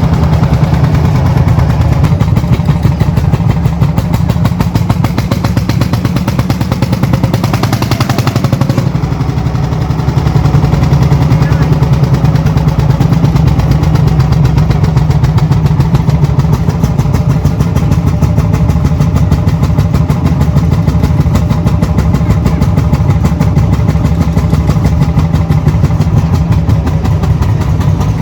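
Tractor diesel engine running steadily with a fast, even firing beat. It briefly grows harsher about eight seconds in, then settles back.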